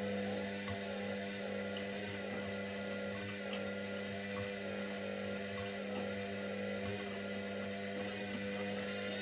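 Washing machine on its 1200 rpm spin cycle, running at steady speed with an even motor hum and whine. There is a single sharp click about a second in.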